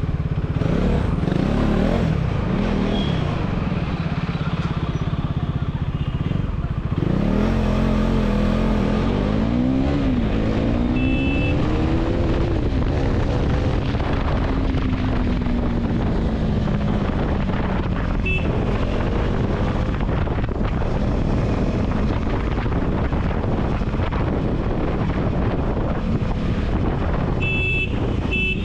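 KTM Duke 390's single-cylinder engine running through an aftermarket dual exhaust while the bike is ridden. About seven seconds in the engine note rises as it accelerates, then falls slowly over several seconds.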